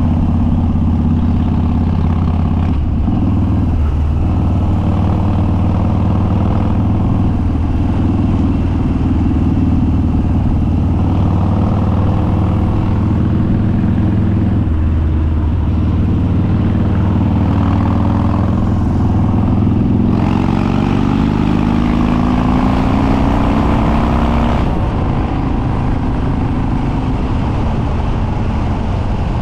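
Harley-Davidson Dyna Street Bob's Twin Cam V-twin, with Stage 2 cams and open, unbaffled upswept dual exhaust, running at a steady pace on the road. About twenty seconds in it revs up with rising pitch, then eases off near the end, leaving mostly road and wind noise.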